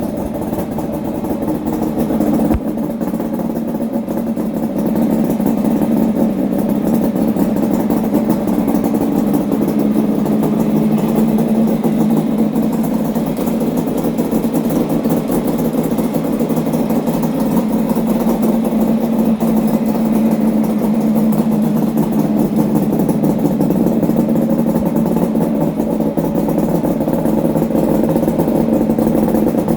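Kawasaki KH250 A5's three-cylinder two-stroke engine idling steadily through newly fitted Higgspeed expansion-chamber exhausts, on its first run with them.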